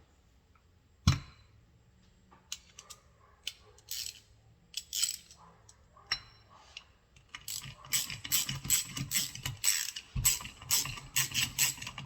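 A hand tool clicking rapidly as small screws are driven in. A few scattered clicks and knocks come first, then a fast run of clicks starts about seven seconds in, pauses briefly and resumes.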